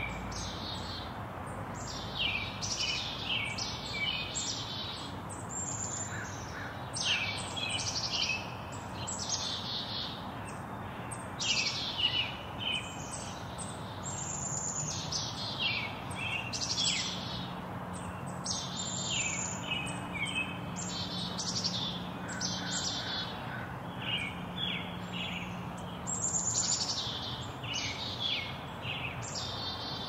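Several songbirds chirping and calling without a break, mostly quick high chirps that fall in pitch, over a steady background rush. A faint low hum comes in for several seconds midway.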